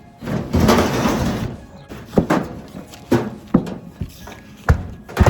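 A scraping, rustling noise for about a second and a half, then a string of about six sharp knocks and bangs at uneven intervals, like materials being handled and knocked about.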